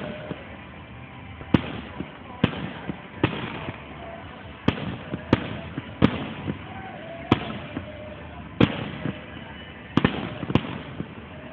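Aerial firework shells bursting at a fireworks display: about ten sharp bangs at uneven intervals.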